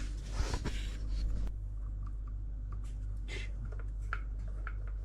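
Light handling noises from washing machine tub parts being fitted together: a soft rubbing in the first second or so, then scattered faint clicks and taps, over a steady low hum.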